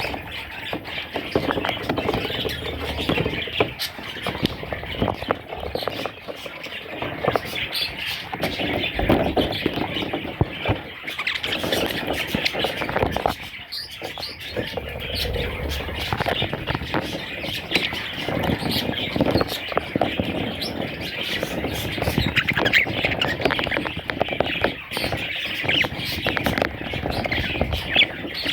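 Budgerigars chattering and squawking: a dense, unbroken stream of quick chirps, squeaks and harsh calls.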